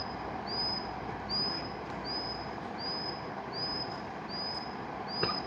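Steady rushing of a mountain river, with a short high chirp repeating evenly about every three quarters of a second and a single click near the end.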